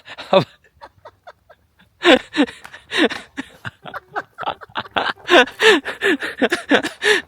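People laughing hard in a long run of short bursts, starting about two seconds in.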